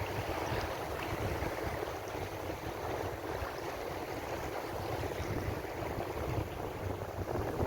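Ocean surf washing in continuously: a steady rush of breaking waves over a low rumble.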